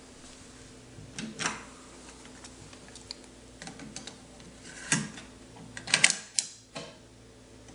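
A Kenwood KX-830 cassette deck being operated by hand: a handful of separate mechanical clicks and clunks from its controls and mechanism, spaced a second or more apart, with a quick cluster of them about six seconds in.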